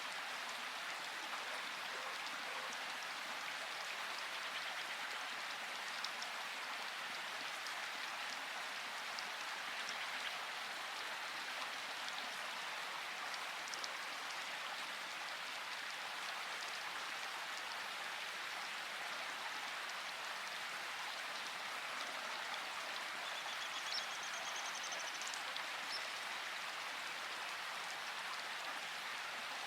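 Steady rain falling, an even hiss with scattered small drop ticks. A faint high trill comes in about three quarters of the way through.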